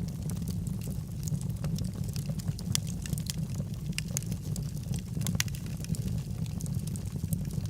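Wood fire burning in a fireplace: a steady low rumble of flame with irregular sharp crackles and pops from the logs.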